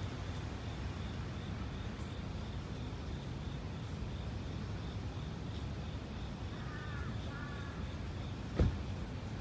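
Two short harsh bird calls in quick succession about two-thirds of the way through, over a steady low outdoor rumble and a faint high pulsing tone, about four beats a second. A single sharp thump near the end is the loudest sound.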